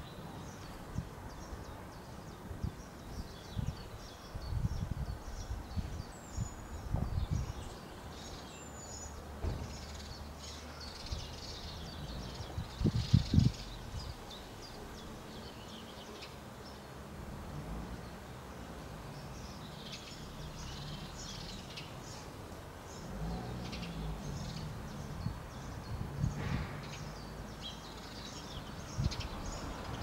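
Small birds chirping, short scattered high chirps and twitters, over a steady low outdoor rumble, with a few dull low thumps, the loudest about 13 seconds in.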